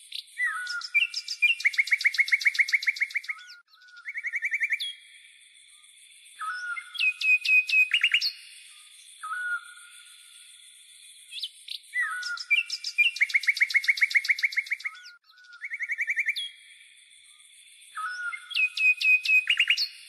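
Songbird song: phrases of rapid trills and clear whistled notes with pauses of a few seconds between them, the same phrases coming round again and again.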